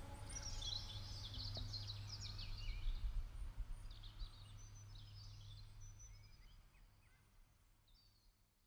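Birds chirping in quick, short calls over a low steady hum, fading out toward the end.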